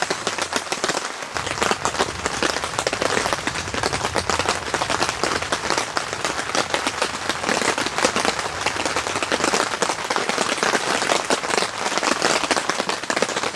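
Rain falling steadily, a dense, unbroken stream of drops striking close by.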